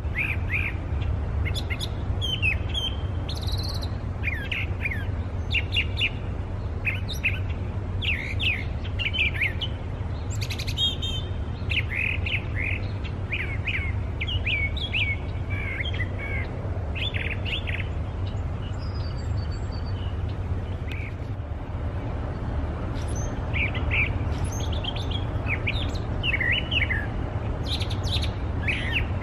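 A brown thrasher singing: a long run of short, varied, rapid phrases, the song of a mimic known for copying other birds, thinning out for a few seconds midway before picking up again. A steady low rumble runs underneath.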